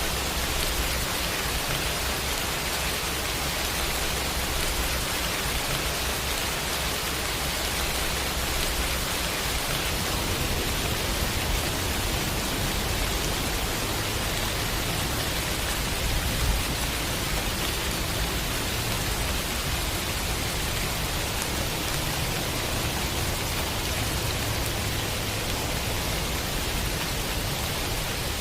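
Steady heavy rain, a dense even hiss, with a low rumble underneath that grows fuller about a third of the way in.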